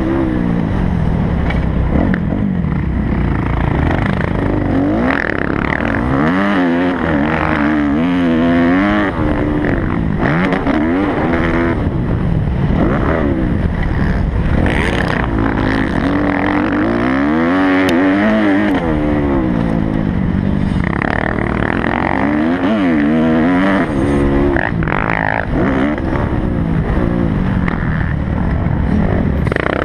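Kawasaki motocross bike's engine revving hard and backing off again and again, its pitch rising and falling every few seconds as the rider accelerates, shifts and rolls off the throttle.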